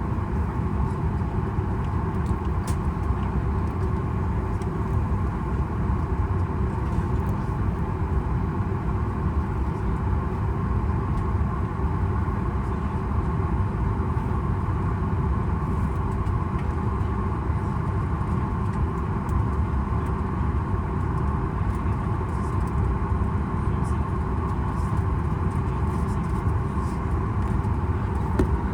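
Steady cabin noise inside a Boeing 737 MAX 8 on the ground: a dense low rumble with a constant hum near the middle of the range, unchanging throughout, with a few faint light ticks.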